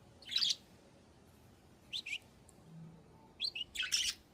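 Budgerigars giving short, scratchy chirps and squawks: one call about half a second in, a quick pair about two seconds in, and a cluster of calls near the end.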